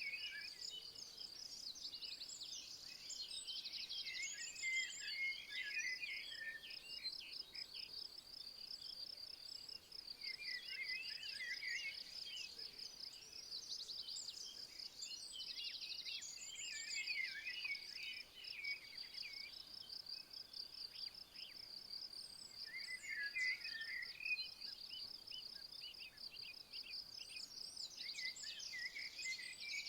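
A continuous high, rapidly pulsing insect trill, like a cricket or bush-cricket, with a songbird singing varied phrases that come back every several seconds.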